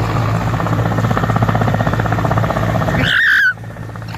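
Helicopter rotor chopping with a steady engine drone, growing louder, then a brief high-pitched squeal about three seconds in before the sound cuts off abruptly.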